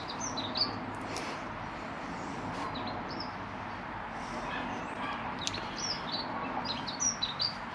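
Small birds chirping in short, scattered calls, with a few light clicks from hands working a rubber bush onto a braided hose.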